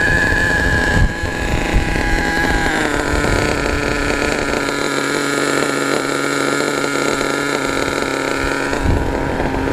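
Small nitro-methanol glow engine of an HPI Savage SS RC monster truck running at a steady speed, its pitch dropping slightly about three seconds in. The owner thinks it is running a little lean and due for carburettor tuning. Wind rumbles on the microphone.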